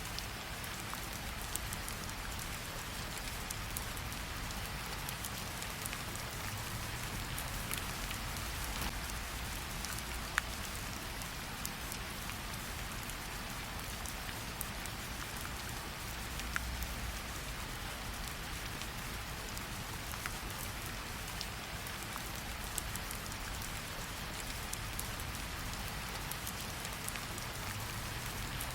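Steady rain hiss over a low rumble, with scattered sharp pops and clicks from a crackling fireplace; the loudest pop comes about ten seconds in.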